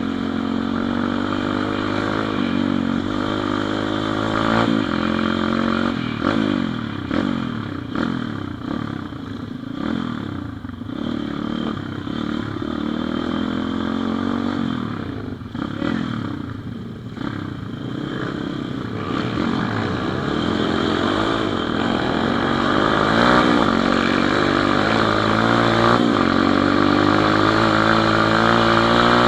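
Pit bike's small single-cylinder four-stroke engine running under way, its revs rising and falling repeatedly through the middle, then holding higher and louder near the end.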